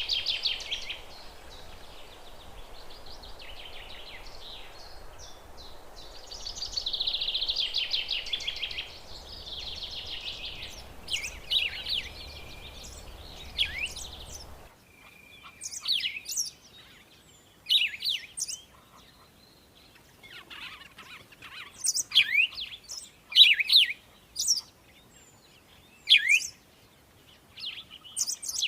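Birdsong: fast, buzzy trilling chirps over a background hiss. About halfway through, the background drops away abruptly and it changes to short, sharp, downward-sweeping chirps repeated every second or two, as from a different recording.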